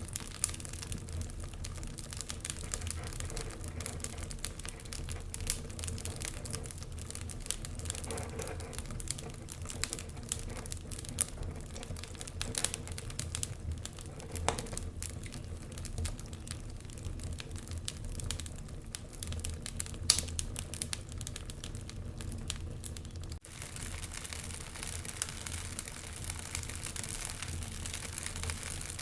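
Wood fire crackling in a fireplace: a dense, irregular run of small snaps and ticks, with a few louder pops, over a low steady hum. The sound breaks off for an instant about two-thirds of the way through.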